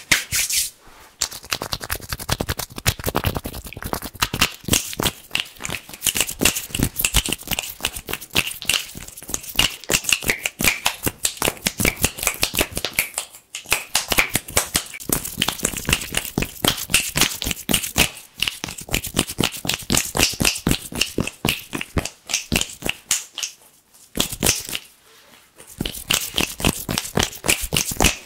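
Fast, crisp hand sounds: a dense run of rapid crackling clicks, broken by a few short pauses.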